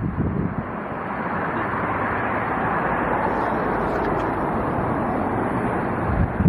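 Jet airliner engines making a steady rushing noise that swells slightly midway.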